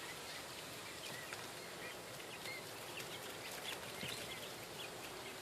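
A brood of baby quail peeping faintly: many short, high chirps overlapping at random.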